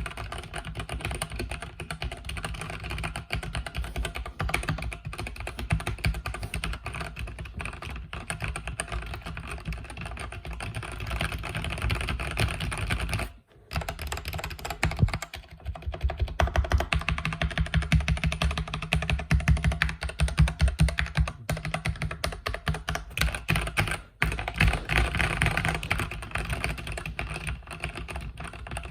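Continuous fast typing on a mechanical keyboard with red (linear) switches, a dense run of key clacks. Two brief pauses come about halfway through and again a few seconds before the end.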